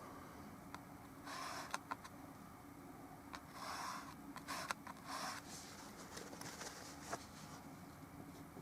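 Short scrubbing strokes of a paintbrush on an oil painting's surface, in a few bursts about a second in, around four seconds and around five seconds, with a few light clicks and taps in between.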